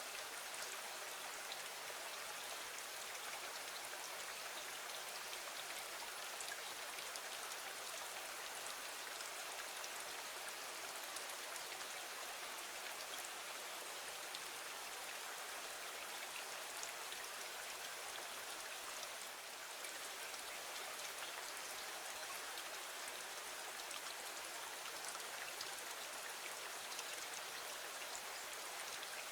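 Steady rain falling against a window: an even hiss with faint scattered drop ticks.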